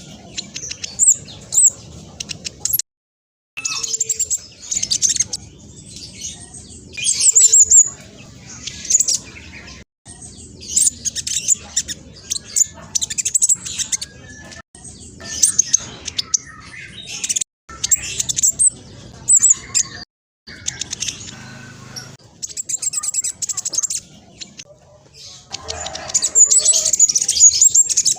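Black sunbird (spotted 'trotol' form) singing a fast, high-pitched chattering song in repeated bursts a second or two long. The sound cuts out abruptly to silence several times.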